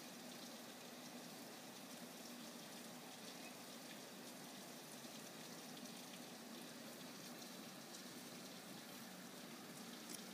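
Steady rain falling, a faint even hiss with a few light drop ticks near the end.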